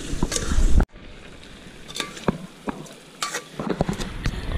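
Chicken pieces sizzling as they sauté in an aluminium pot, with a metal ladle stirring and clinking against the pot's sides. The sizzle drops sharply about a second in, then goes on more quietly with scattered ladle clicks.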